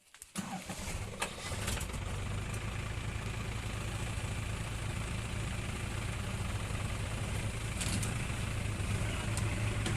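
Vehicle engine running steadily, cutting in abruptly from near silence about a third of a second in, with a few sharp clicks in the first couple of seconds.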